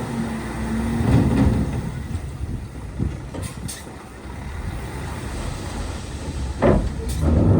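Heavy diesel earthmoving machinery at work: engines running under load, with short louder surges and knocks about a second in and near the end.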